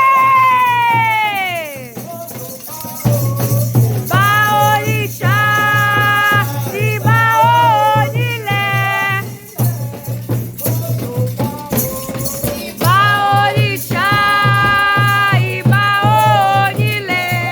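Candomblé chant: voices singing held, pitched phrases in two spells, over a rattle shaken steadily. It opens with a long voice sliding down in pitch.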